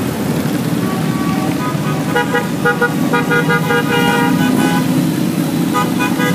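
Vehicle horns tooting again and again at several pitches over a steady rumble of engines.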